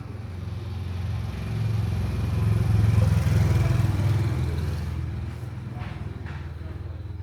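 A motor vehicle's engine running as it drives past, growing louder to a peak about three seconds in and then fading away.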